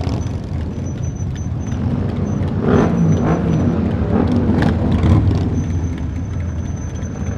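Motorcycle engine running on the road, a steady rumble with the engine pitch rising and falling a few times around the middle.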